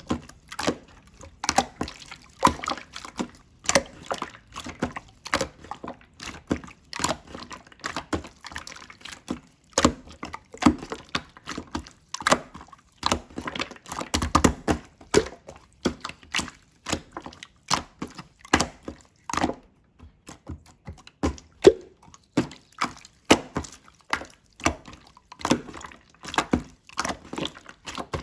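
Slime being squeezed, folded and pressed by hand, giving irregular sticky pops and clicks, several a second, with an occasional longer squelch.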